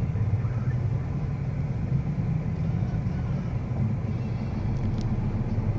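Steady low hum of a car's engine idling and creeping forward in a traffic jam, heard from inside the cabin. A single brief click sounds about five seconds in.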